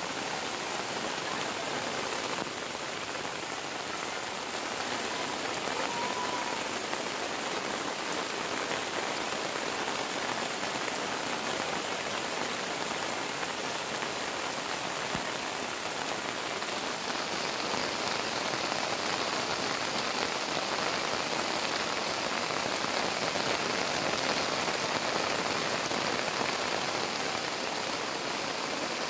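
Heavy rain pouring down onto a flooded road, a steady, even hiss.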